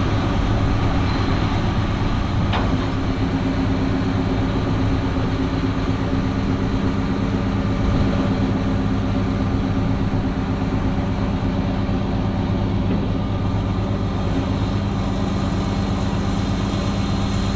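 Cotton picker's diesel engine running steadily, with a single brief click about two and a half seconds in.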